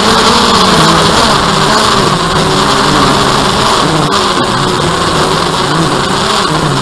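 DJI Phantom quadcopter's motors and propellers running with a steady drone, the pitch wavering up and down as the motors adjust speed in flight, over a broad rushing hiss.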